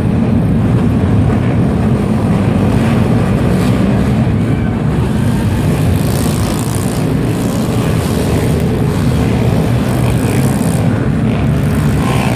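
Pit bike engines running steadily, a loud continuous drone of small motorbike engines, with a brighter rise in the high sound about halfway through.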